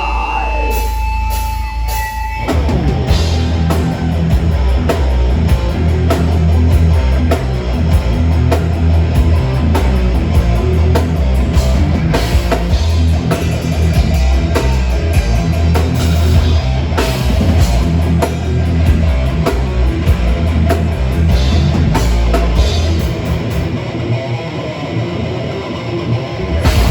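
Live heavy metal band playing: distorted electric guitars, bass and drum kit. It opens on a lone sustained guitar tone, and the full band comes in about two and a half seconds in; near the end the low end thins out briefly.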